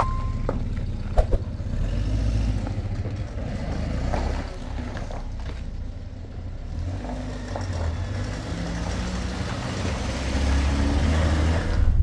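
A saloon car's engine running with a low rumble, growing a little louder near the end as the car drives off.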